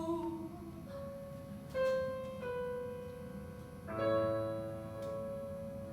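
Piano accompaniment between sung lines: a few single notes, then a chord struck about four seconds in and left to ring.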